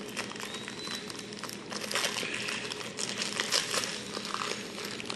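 Plastic packaging crinkling as it is handled, a dense run of small irregular crackles.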